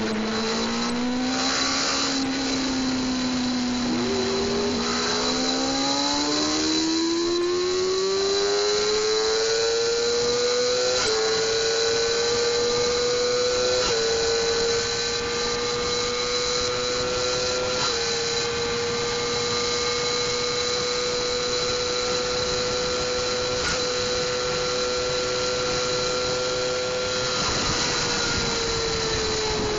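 600cc inline-four sport bike engine pulling hard, its pitch climbing steadily with brief dips at three quick gear changes. It then holds at very high revs in top gear for about ten seconds, speed capped by the gearing, before the throttle is rolled off and the revs fall near the end. Steady wind rush runs underneath.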